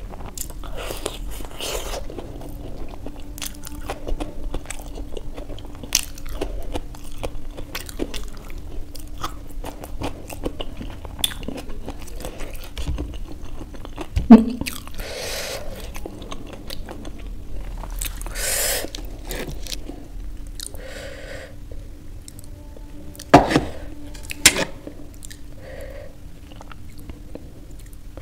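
Close-up eating sounds of a person biting into and chewing a chutney-dipped samosa: many small wet mouth clicks and crunches. There are a few louder sharp clicks, one about halfway through and two close together later on.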